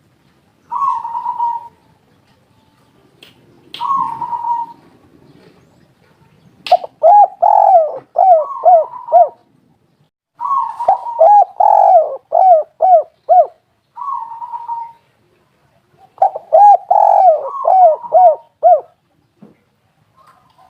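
Spotted doves cooing. There are two short single coos, then longer phrases of quick repeated arching coos at two pitches, as if two birds call over each other.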